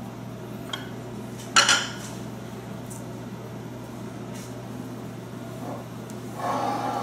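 Kitchen dishes and utensils clinking: a light tap, then a sharp clink about one and a half seconds in, and a softer clatter near the end, over a steady low hum.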